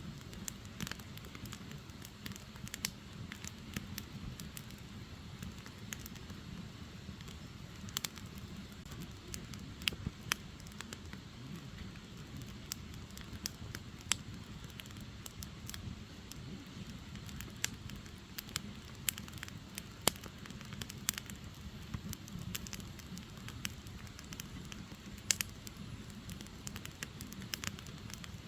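Firewood burning: a steady low rumble from the fire with frequent sharp, irregular crackles and pops from the logs.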